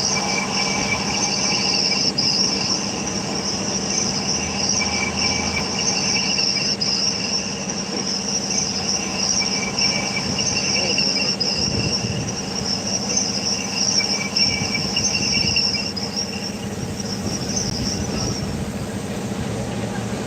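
A steady, shrill chorus of insects chirring, which stops a couple of seconds before the end.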